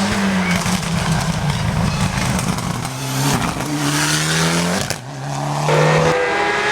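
Race car engine accelerating hard at full throttle on a hillclimb. Its pitch climbs, then cuts off briefly about five seconds in at a gear change and picks up again.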